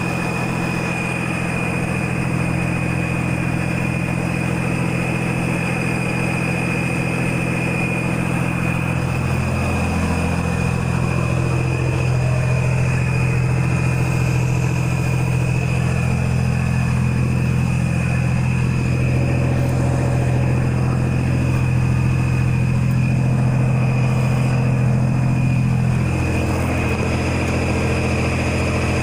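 Volvo VNL 780 semi-truck diesel engine running with its muffler deleted: a steady open-exhaust drone with a steady high turbo whistle over it. The engine note shifts about ten seconds in and settles back near the end.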